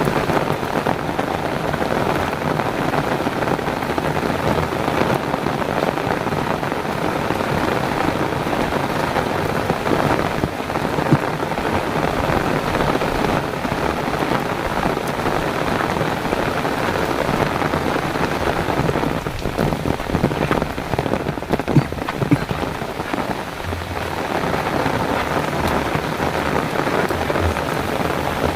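Heavy rain falling steadily and evenly, with a few sharper single drop hits now and then.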